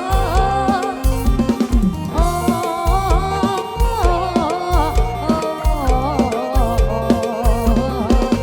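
Loud Isan-style rot hae band music played live through a sound-truck rig: a heavy, evenly pounding bass-drum beat under a melody line, with no sung words.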